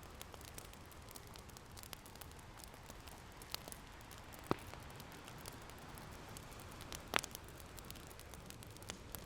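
Wood fire crackling with scattered sharp pops, the loudest about seven seconds in, over a steady hiss of ocean waves.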